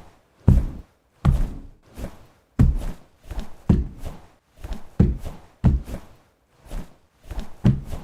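Repeated heavy thumps in a room, about a dozen spaced roughly two-thirds of a second apart, like someone stomping and banging about.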